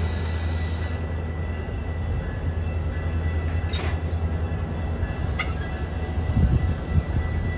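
Metra bilevel commuter coaches rolling past on the rails: a steady low rumble and hum, with a few sharp clicks from the wheels.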